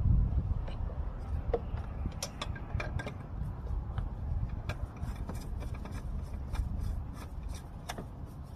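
Oil filter being fitted and threaded on by hand on a Mercedes-Benz Sprinter: a scatter of light clicks, taps and scraping, over a steady low rumble.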